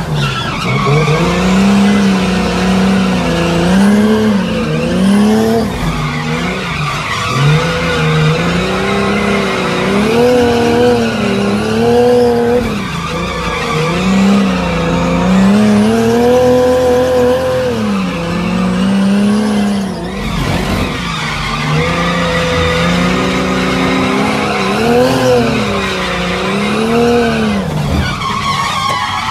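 Drift car's engine heard from inside the cabin, its revs rising and falling every second or two as the throttle is worked through a drift, with the tyres squealing.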